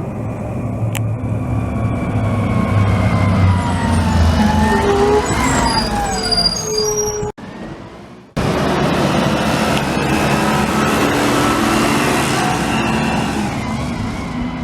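Garbage truck squealing with high, drawn-out tones that slide up and down over its engine. The sound cuts out for about a second a little past halfway, then the engine noise and fainter squeal return.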